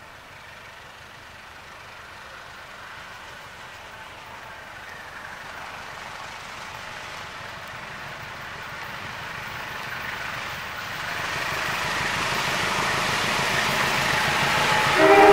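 Diesel-electric locomotive at the head of a passenger train approaching, its engine and wheels on the rails growing steadily louder. Its horn starts to sound just before the end.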